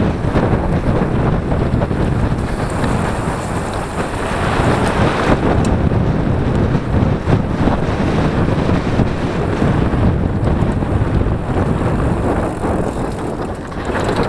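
Wind buffeting the microphone during a mountain bike ride along a trail: a loud, steady rushing rumble with occasional faint knocks from the ride over rough ground.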